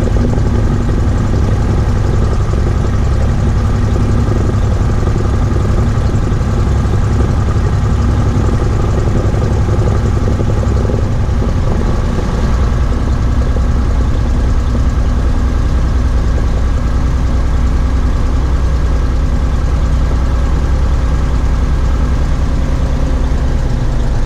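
Cessna 172H's six-cylinder Continental O-300 piston engine running at low power, a steady low drone typical of idling or taxiing after landing. Its lowest hum shifts a little lower about halfway through.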